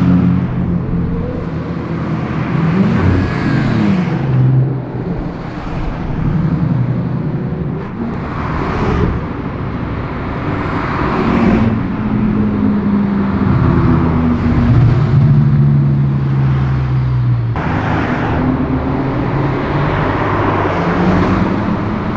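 A string of sports cars and supercars driving past one after another, engines accelerating with their pitch rising and falling, several louder pass-bys among city traffic.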